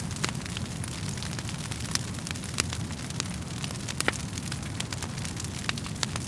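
Wood fire burning in a fireplace: a steady low rumble of flames with irregular sharp crackles and pops from the burning logs, one louder pop about four seconds in.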